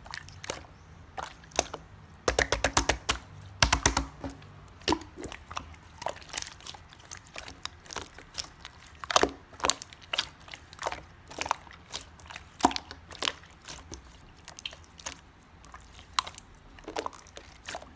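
Clear slime with purple glitter and added parts being squished and pressed, making sharp sticky pops and clicks throughout, with two quick runs of rapid clicks a little after two seconds and near four seconds in.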